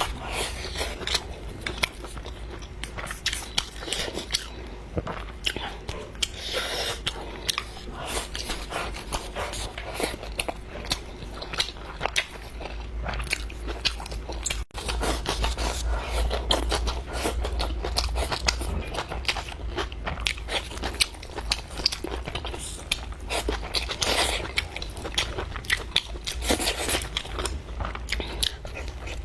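A person chewing and biting food close to the microphone, with a dense run of small irregular clicks and crunches.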